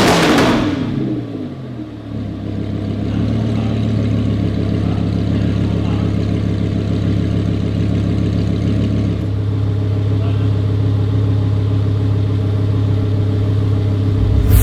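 A performance engine's exhaust: revs fall away over the first two seconds, then it settles into a steady, even idle, with a loud rev blip right at the end.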